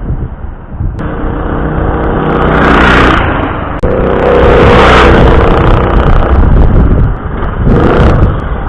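Predator 212 single-cylinder engine on a mini bike, revving through an aftermarket side-mount exhaust pipe. The revs climb over the first three seconds, drop off sharply near four seconds, then are raised again several times.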